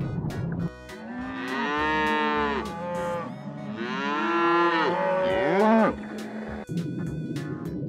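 Cows mooing: two long moos in a row, the second with more than one call overlapping, with background music before and after.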